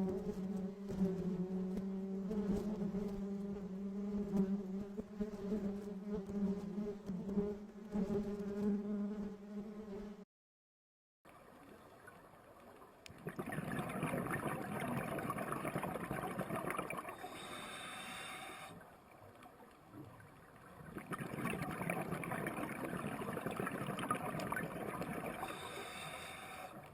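Bees buzzing in a steady, low hum for about ten seconds, which cuts off abruptly. After a second of silence comes a rushing, water-like noise that swells and eases.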